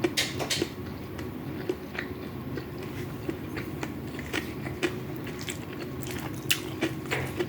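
Close-miked chewing and mouth sounds of someone eating fried rice with chicken and vegetables: irregular short smacks and clicks, over a steady low hum.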